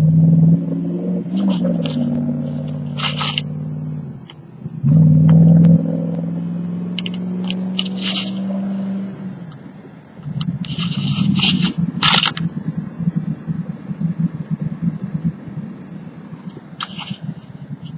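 Wood-gas-fuelled truck engine running: a steady engine note that drops away about four seconds in, comes back, and drops again near ten seconds, then turns into a rougher, rattling run.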